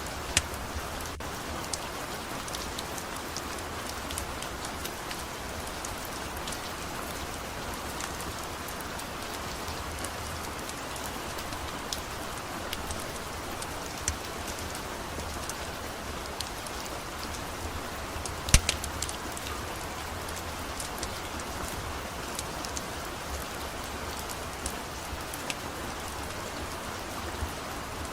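Steady rain falling, with scattered sharp clicks and pops over it. One much louder pop comes about two-thirds of the way in.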